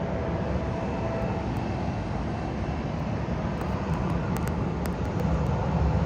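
Alaska Airlines Boeing 737 MAX 9 jet engines rumbling as the airliner lands, a steady roar that grows louder about five seconds in.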